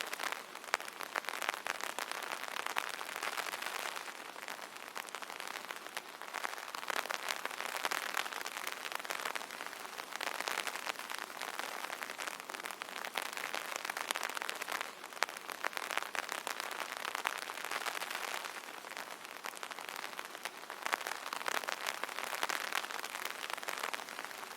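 Rain pattering on an umbrella canopy: a dense, continuous spray of drop ticks that swells and eases every few seconds.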